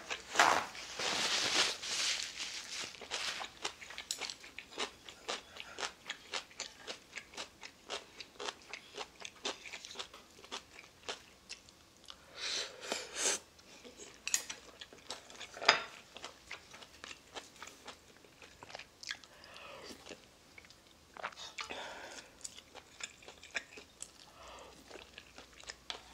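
Close-miked chewing and crunching of food, with wet mouth sounds, in irregular bites that are loudest in the first few seconds and again about halfway through. A single sharp click stands out about sixteen seconds in.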